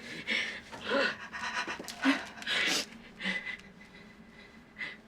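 A person panting and gasping hard, in about six ragged breaths that die down after the first three seconds or so.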